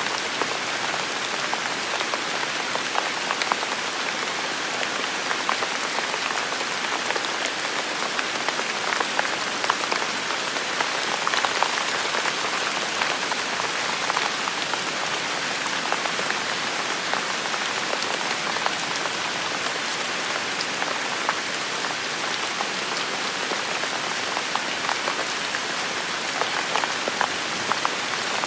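Steady heavy rain falling, a dense hiss of rainfall peppered with the patter of individual drops striking surfaces.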